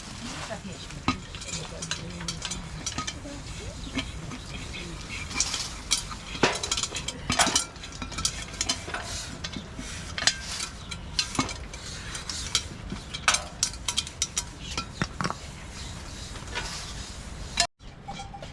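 Food sizzling in a cooking pot while a metal utensil stirs and scrapes it, with irregular clinks and knocks against the pot.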